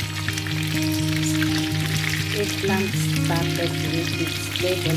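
Hot oil sizzling and crackling around eggplant slices frying in a nonstick pan, over background music.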